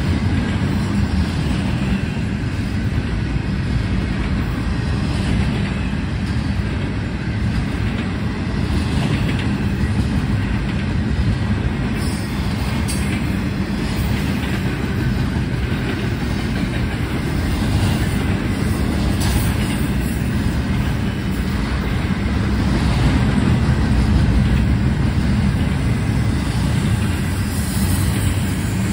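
A train rolling past at close range: a steady, loud rumble of wheels on rail with faint, irregular clacks.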